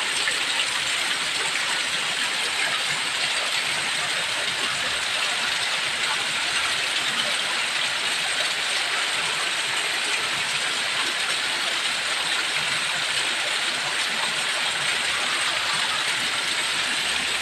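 Heavy rain falling steadily, with runoff water pouring down in a small cascade: an even, dense hiss.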